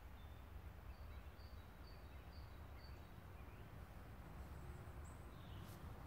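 Faint woodland ambience with a low steady rumble, and a small bird repeating a short high note about five times in an even series.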